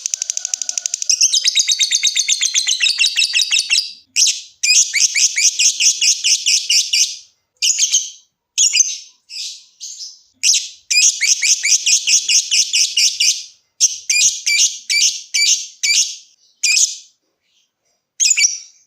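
Lovebird ngekek: long runs of very rapid, high-pitched chattering trills lasting a few seconds each, broken by short pauses, with shorter bursts toward the end.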